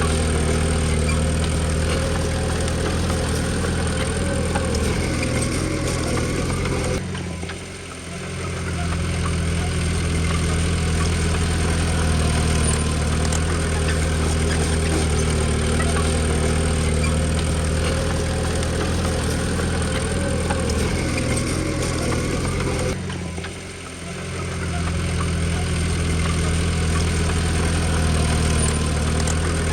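Diesel engine of heavy earthmoving machinery running steadily. Twice the sound drops away abruptly and then swells back over a second or two.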